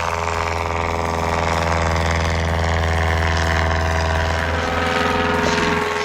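Vintage aircraft piston engine running close by at a steady, low setting, its pitch sinking slightly over the few seconds.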